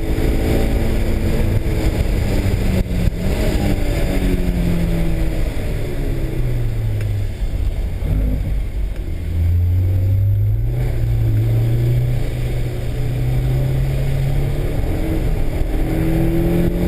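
Honda S2000's four-cylinder engine heard from inside the cabin, its note falling steadily for about eight seconds as the car comes off the throttle, then climbing again as power is fed back in, over steady road noise.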